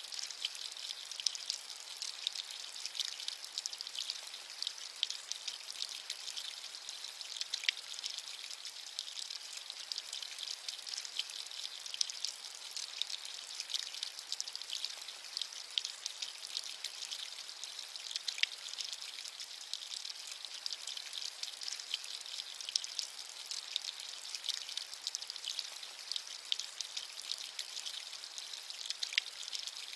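Steady rain, a high hiss with many small drop ticks.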